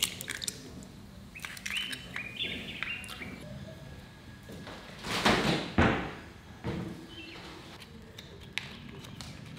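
A run of short, high chirps like a small bird's, about one and a half to three and a half seconds in, with a few fainter ones near the end. About five seconds in comes a rustle or scrape lasting about a second, the loudest sound.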